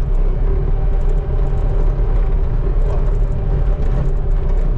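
Skid steer engine running steadily under load during snow scraping, a constant low rumble with a steady hum.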